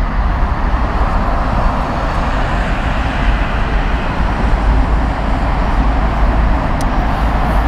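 Steady, loud noise of jet airliner engines running at taxi power, over a heavy low rumble.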